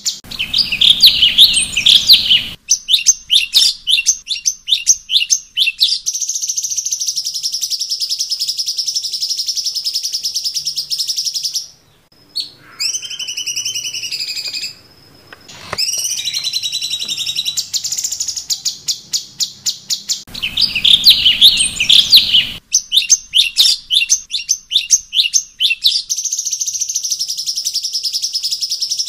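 Cucak cungkok songbird singing: fast runs of sharp high chirps, a long steady high trill, and a few gliding whistled notes, with the whole sequence repeating about twenty seconds in.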